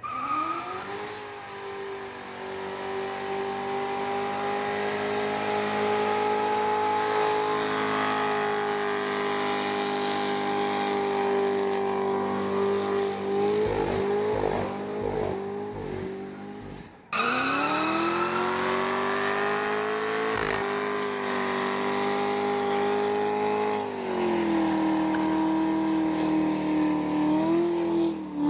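2009 Corvette ZR1's supercharged V8 held at high revs during a burnout. Partway through the revs waver and dip, then the sound cuts off abruptly and comes back with the revs climbing again.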